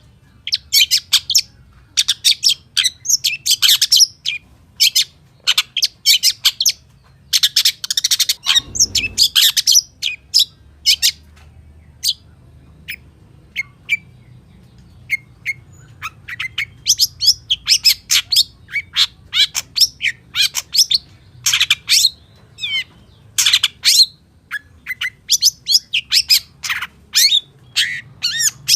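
Long-tailed shrike singing a rapid, varied song of sharp chirps, trills and harsh notes, full of imitations of other birds' calls. The song thins to scattered single notes around the middle, then runs dense again, with a short low thump about nine seconds in.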